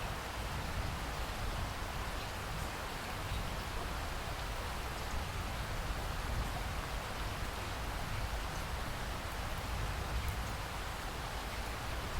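Steady rain falling: an even hiss of rain on surfaces, with scattered individual drops ticking through it.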